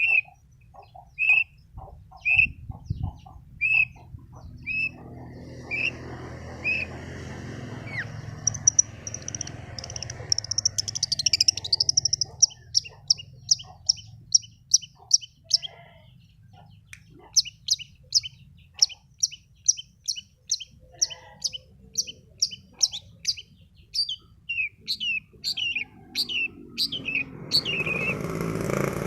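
Long-tailed shrike (cendet) calling in repeated short notes, a lure recording used to make a caged shrike answer. It starts with spaced notes about a second apart, then from about eight seconds in runs into a fast series of sharp high notes, about two a second.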